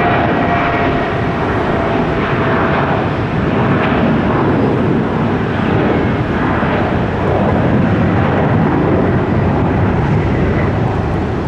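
Aircraft engine noise, loud and steady, as a plane passes on the runway, with a fading whine in the first second.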